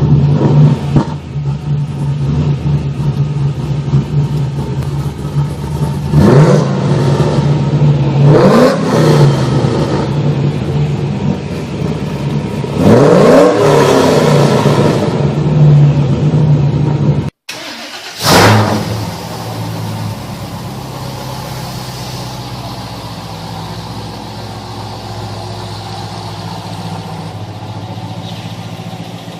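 A car engine idling and being revved several times, each rev a quick rise and fall in pitch. After an abrupt break it is revved once more, then settles into a steady, quieter idle.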